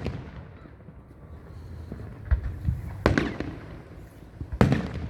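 Fireworks going off: a couple of dull thumps a little past two seconds in, then two sharp bangs about one and a half seconds apart, each trailing away.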